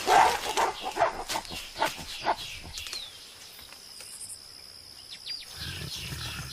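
Mountain gorillas squabbling: a loud sharp call, then a string of short bark-like calls over the first two and a half seconds, quieter after that.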